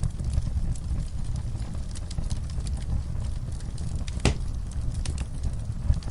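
Wood fire burning in a fireplace: a steady low rumble of flames with frequent small crackles and one louder pop a little after four seconds in.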